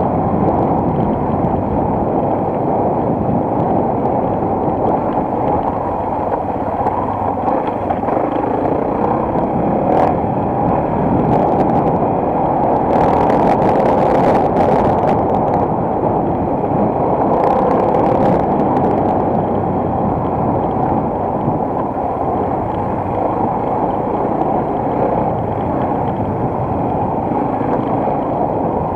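Onboard sound of a single-cylinder enduro motorcycle riding along: steady engine and wind noise, loud and dull. A few brief knocks and rattles come through around the middle.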